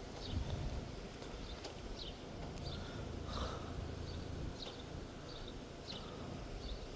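Wind rumbling on the microphone, with a small bird chirping repeatedly in short, high, falling notes.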